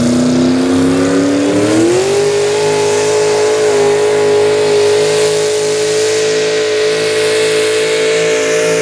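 Two-wheel-drive super stock pulling truck's engine at full throttle down the track. Revs climb about two seconds in, then hold high and steady.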